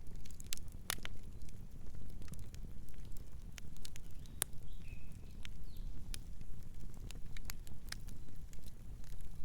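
Campfire crackling, with sharp irregular pops of burning wood over a steady low rumble. A faint, brief bird chirp comes about halfway through.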